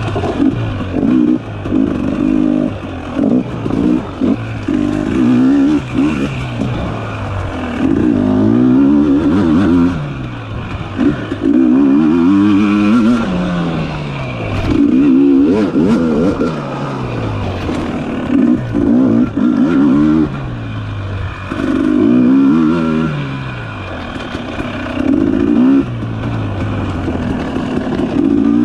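Dirt bike engine being worked on and off the throttle, its pitch climbing and dropping back over and over, every second or two.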